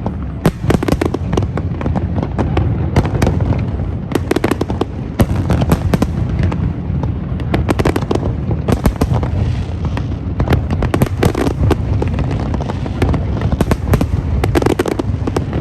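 Fireworks display: a dense, unbroken barrage of bangs and crackles over a constant low rumble.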